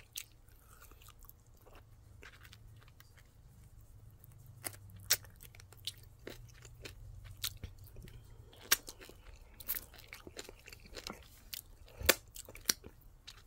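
A person chewing a crispy air-fried chicken wing, with quiet, irregular crunches and a few sharper clicks.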